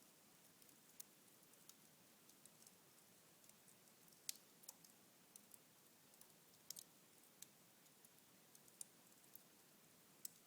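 Cherry-wood fire burning low in a fireplace, with faint, irregular crackles and ticks over a soft hiss. The sharpest pop comes about four seconds in.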